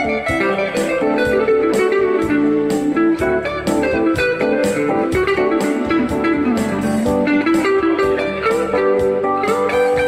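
Guitar-led instrumental music: plucked guitar melody over a steady beat, with one phrase sliding down and back up partway through.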